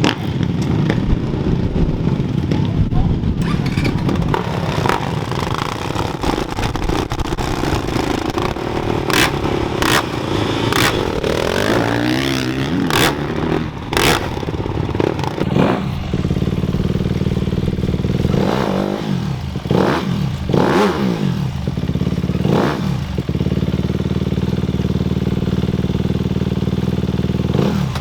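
Off-road dirt bike engines running and revving, with sharp clicks and clatter in the middle. In the second half, bikes go by with a rising then falling pitch over a steady engine drone.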